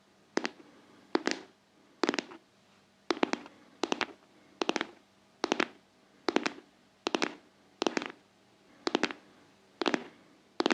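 Close-miked ASMR tapping: sharp taps in quick pairs and triples, a little more than one group a second, in a rhythm like a heartbeat.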